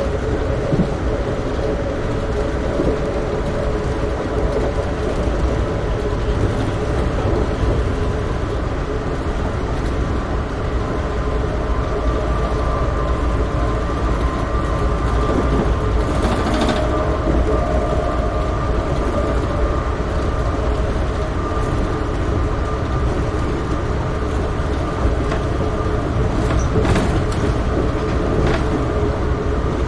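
Amtrak Keystone passenger train running at speed on the line: a steady low rumble of wheels on rail under a constant hum, with a few sharp clicks about halfway through and again near the end.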